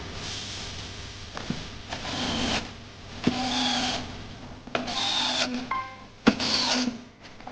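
A hand tool working wood in a series of scraping strokes, each about half a second long, with a sharp knock near the end.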